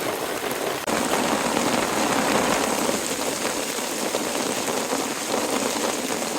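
Heavy rain falling steadily in a thunderstorm, a dense even hiss, with a sudden jump in loudness about a second in.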